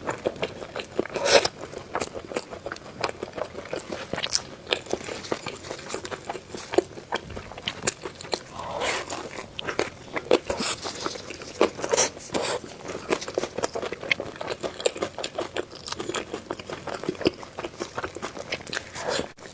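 Close-miked eating: repeated crunchy bites and chewing of crisp food, with wet mouth sounds between bites.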